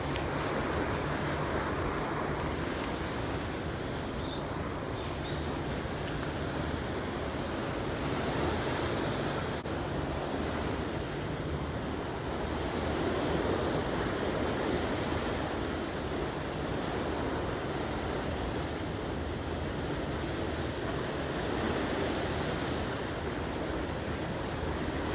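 Steady rushing of seawater with wind on the microphone, swelling gently every few seconds, over a low steady hum.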